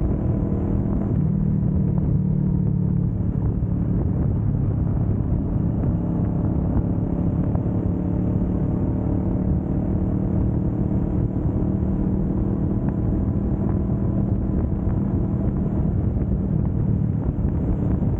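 Kawasaki Vulcan S 650's parallel-twin engine running at a steady pitch while the motorcycle cruises on the highway.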